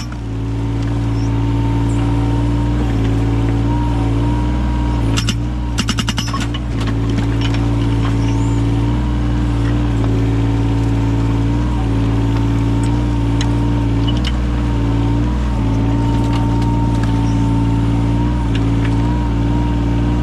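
Yanmar 017 mini excavator's diesel engine running steadily, its pitch dipping briefly now and then under hydraulic load. About five seconds in, a burst of rapid hammering lasting over a second as the axe-blade hydraulic breaker chisel strikes into firewood.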